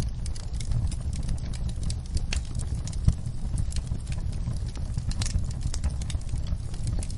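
Wood fire in a fireplace crackling, irregular sharp pops and snaps over a steady low rumble of the flames, with one louder pop about three seconds in.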